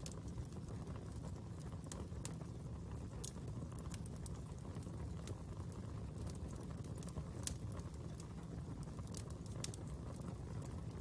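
Fire crackling: a steady low rumble of flames with scattered irregular sharp crackles and pops, the loudest about seven and a half seconds in.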